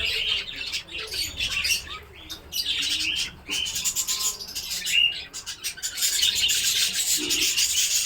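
Many budgerigars chirping and chattering together in a continuous chorus of quick, high calls that grows denser near the end.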